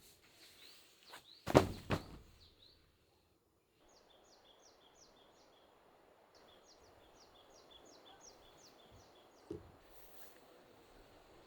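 A loud thump near the start, then, after a brief gap, a bird chirping in a quick run of short high notes over a faint outdoor background, with another soft thump near the end.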